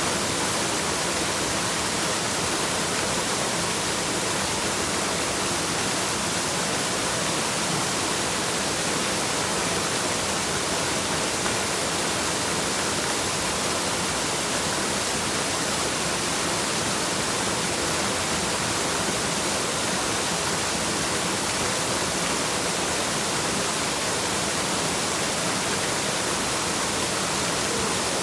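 Waterfall rushing in a steady, even roar of falling water that does not change.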